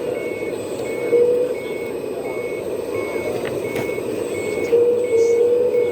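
Reversing beeper on a 1/14-scale RC construction model, beeping evenly about one and a half times a second over the steady whine and drone of the model's motors.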